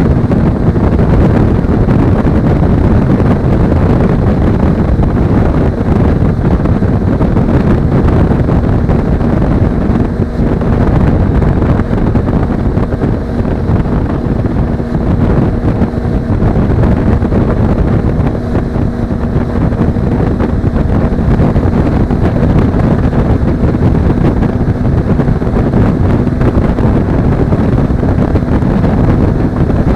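Steady wind rush buffeting the action camera's microphone at road speed, with the constant drone of a Suzuki V-Strom 250's parallel-twin engine holding an even note underneath.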